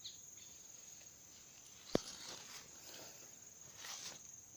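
Steady high-pitched trill of insects such as crickets, with one sharp click about two seconds in.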